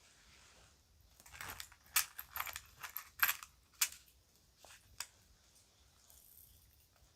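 Children's jewelry pieces being handled, clinking and jingling against each other: a run of light clinks starting about a second in, busiest in the middle, ending with a single click near the end.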